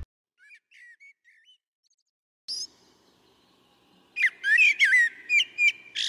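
Bird calls: a few faint chirps, one sharp call, then a quick run of about eight louder whistled chirps in the last two seconds.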